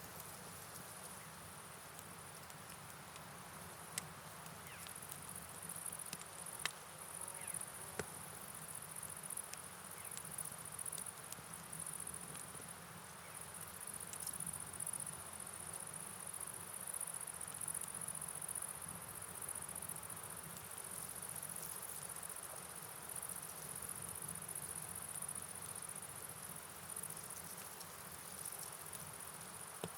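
Crickets chirring steadily in a high, shimmering drone over a soft hiss of rain and a flowing river. A few sharp clicks come in the first eight seconds.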